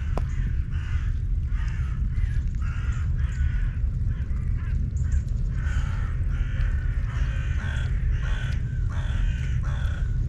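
Birds calling over and over in short calls, one after another, over a steady low rumble.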